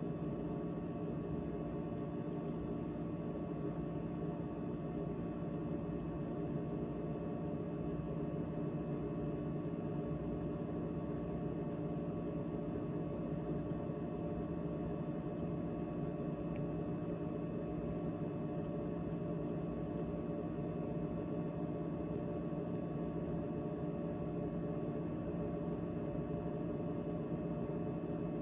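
GE GTH18XCTZRBB refrigerator running after its heat (defrost) cycle: a steady hum of several held pitches over a low rumble, unchanging throughout.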